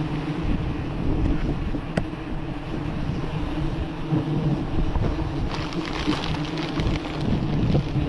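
Wind buffeting the microphone as a steady low rumble with a faint hum underneath. Rustling crackle joins from about five and a half seconds in.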